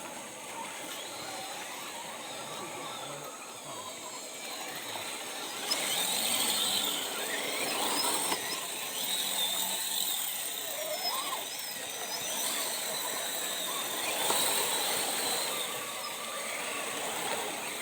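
RC rock crawler's electric Revolver motor and drivetrain whining, the pitch rising and falling as the throttle is worked, over a steady hiss.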